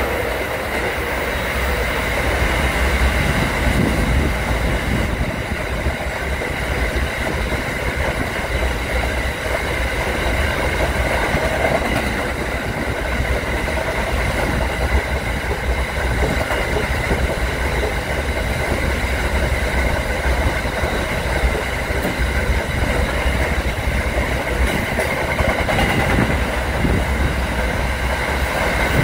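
Freight train of container wagons rolling past at steady speed: a continuous rumble of steel wheels on rail, with a steady high whine over it.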